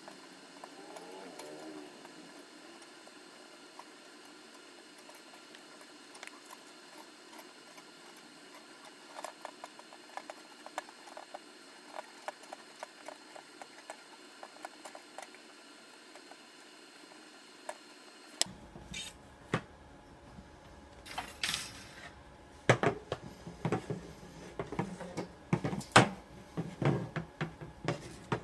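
Scattered light clicks and taps of hand work on small parts, becoming louder and more frequent about two-thirds of the way in.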